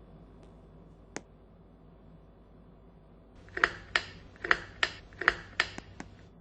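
A single sharp click, then a quick run of about seven sharp mechanical clicks spread over roughly three seconds, heard over a faint steady hum.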